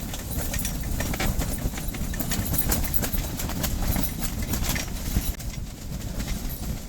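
Strong wind gusting against an ice-fishing hut, a steady low rumble on the microphone, with many small knocks and clatters scattered through it.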